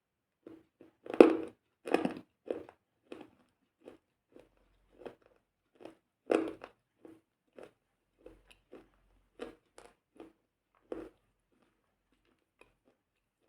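Someone biting into and chewing something crunchy: irregular crunches, the loudest bites about a second in and about six seconds in, thinning out and stopping about eleven seconds in.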